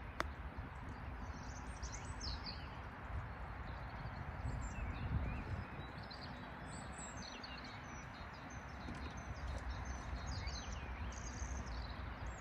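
Small birds chirping and calling on and off over a low, steady outdoor rumble, with a single sharp click right at the start.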